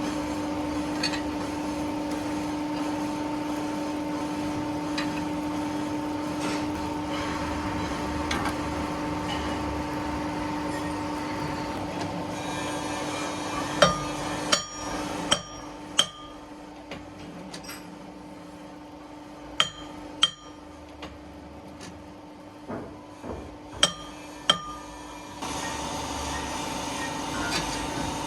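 Workshop machinery running with a steady hum that cuts out for about thirteen seconds. During the pause come about ten sharp metal-on-metal strikes, a hammer on steel. The hum starts again near the end.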